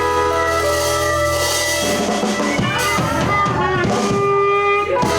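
Live blues band playing an instrumental stretch between sung lines: drum kit and bass under a lead line of held, bending notes.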